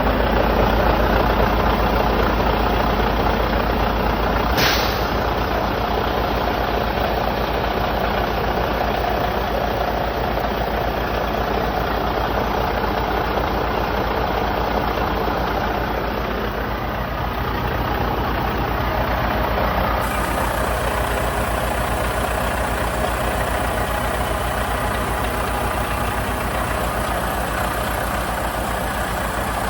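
Truck engine idling steadily, with a single sharp click about four and a half seconds in.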